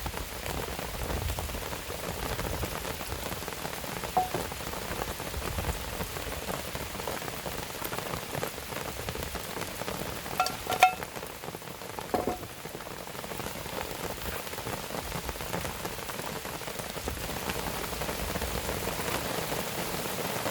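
Steady rain pattering. A few short clinks sound near 4 s, around 11 s (the loudest) and near 12 s.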